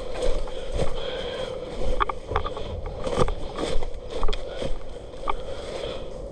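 Movement and handling noise from a player in an airsoft game: steady rustling with about a dozen irregular sharp clicks and knocks.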